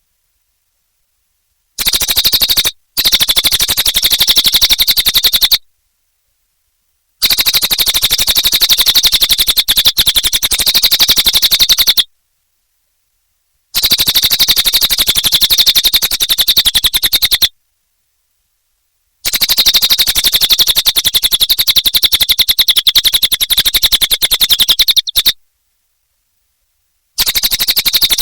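Cililin bird calling in a fast, rattling chatter of rapidly repeated high notes, in bouts of a few seconds broken by short silences.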